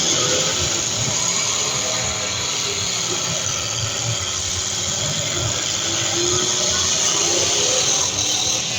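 Several demolition derby cars' engines running and revving together in a continuous din, with no single crash standing out.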